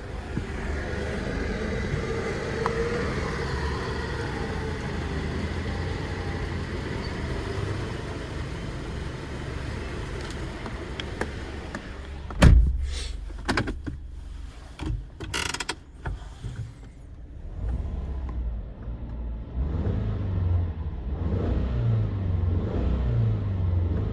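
Subaru EJ204 flat-four engine running with the automatic in gear, a gliding whine rising and falling through the first half. About halfway comes one loud thump, then a few sharp clicks, and the engine runs on with its low note shifting slightly.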